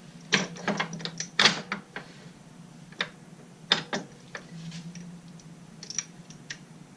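Irregular metallic clicks and taps of tools and parts being handled and adjusted on a lathe, about fifteen in all, with a faint steady low hum underneath.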